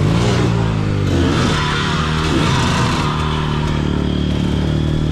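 Honda CRF250F dirt bike's single-cylinder four-stroke engine running under way, its pitch rising and falling several times as the throttle is worked, over a steady rushing noise.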